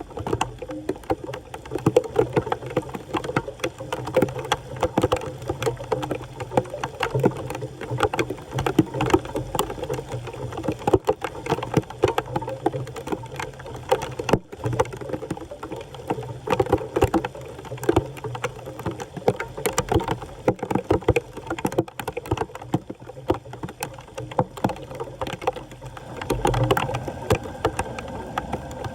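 Floodwater sloshing and splashing at a blocked storm drain as it is cleared, with many irregular clicks and knocks over a steady wash of water.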